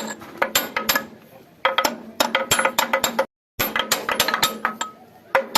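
Hand tools and steel tractor parts clinking and knocking during mechanical work, in quick runs of sharp metallic clicks with a ringing tone after some strikes. The sound cuts out completely for a moment a little past three seconds in.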